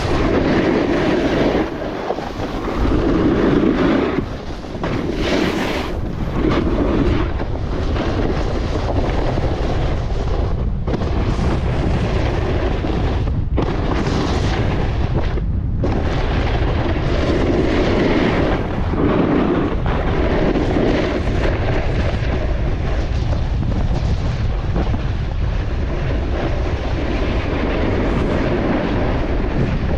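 Strong wind buffeting the microphone: a loud, steady rumbling roar that swells and eases with the gusts, with a few brief dips in the middle.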